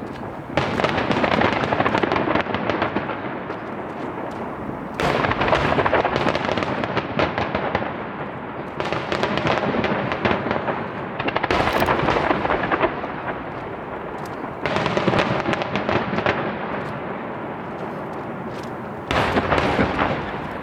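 Fireworks barrage from a starmine with rapid-fire No. 8 aerial shells: a dense, unbroken run of bangs and crackling that surges into louder waves every few seconds.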